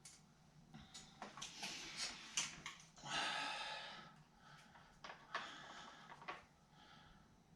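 Dent-puller work on a truck's sheet-metal body panel: a string of sharp metal clicks and clacks, with a hissing burst about three seconds in that fades over the next second.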